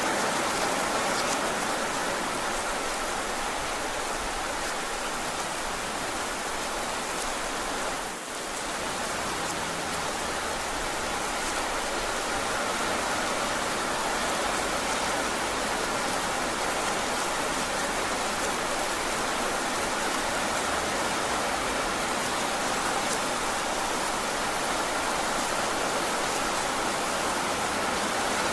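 Heavy rain falling steadily, with a brief dip in level about eight seconds in.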